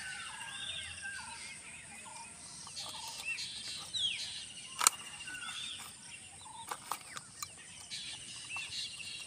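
Several birds calling over and over, short rising-and-falling chirps and falling notes, with one sharp click about five seconds in.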